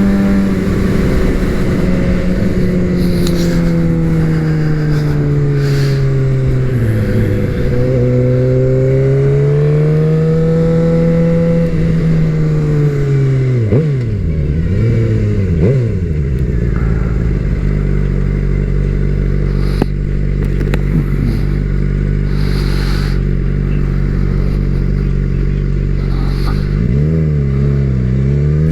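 Suzuki GSX-R750 sport bike's inline-four engine under way, its pitch sinking and climbing with speed. It makes quick dips and rises about halfway through, as with gear changes or throttle blips. It then holds steady for about ten seconds before dipping and rising again near the end, over wind noise.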